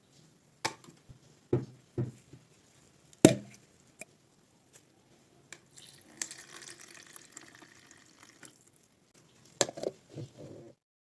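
Metal pipe wrench parts set down with a few sharp knocks, the loudest about three seconds in. Then a couple of seconds of liquid pouring, vinegar for de-rusting the parts, and a few more knocks before the sound cuts off near the end.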